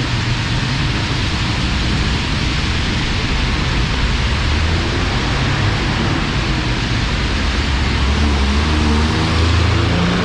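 Heavy monsoon rain pouring steadily, with the low hum of a vehicle's engine passing close by and growing louder toward the end.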